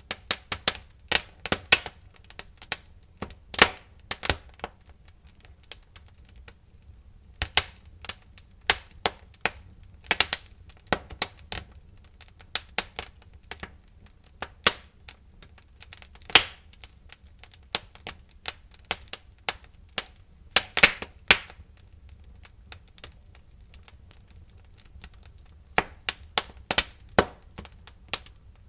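Wood fire in a fireplace crackling, with irregular sharp pops and snaps, some in quick clusters, over a low steady background; a short lull comes about six seconds in.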